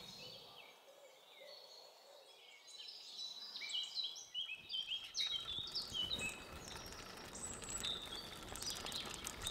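Many birds chirping faintly in quick overlapping short calls, thickest around the middle. From about halfway a low rumbling noise rises underneath.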